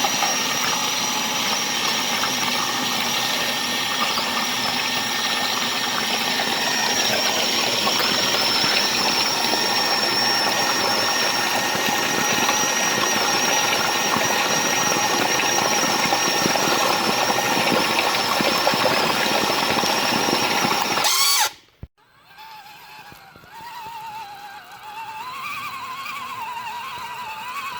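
Radio-controlled truck's motor and gearbox whining steadily under load. About 21 seconds in it cuts off abruptly, and a quieter whine follows that wavers and rises in pitch.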